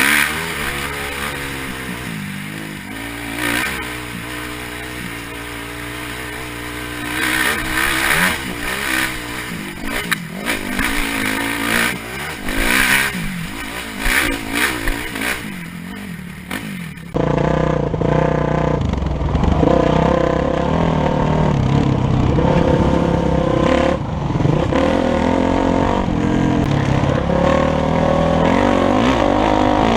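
Dirt bike engine running with revs rising and falling as it rides. About seventeen seconds in, the sound cuts abruptly to a louder, deeper engine note.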